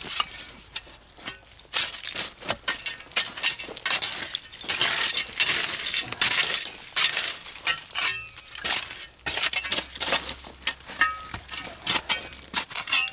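Broken glass and pottery shards clinking and scraping against each other as dump dirt is dug through, in a run of quick irregular clinks and scrapes with now and then a short glassy ring.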